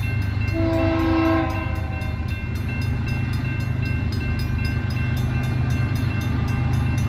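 BNSF diesel locomotives approaching with a steady, deep engine rumble. A short horn blast of about one second sounds near the start.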